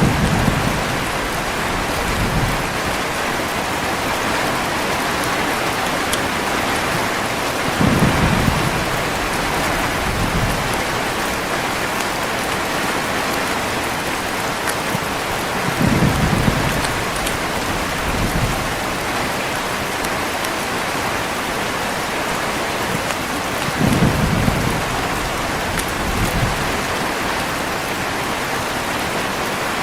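Steady heavy rain with low rolls of thunder. They come four times, about every eight seconds, each with a smaller after-rumble a couple of seconds later.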